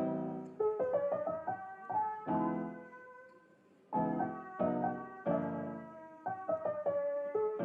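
Background piano music: chords and a melody line of struck notes that ring and fade, dropping away briefly about three and a half seconds in before the playing resumes.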